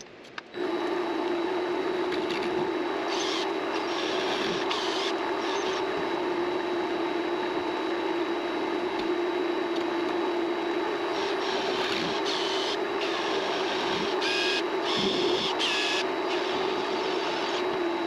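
Mini lathe motor switching on about half a second in and running steadily with a hum and a thin high whine, while short higher-pitched sounds come and go as it turns brass hex stock.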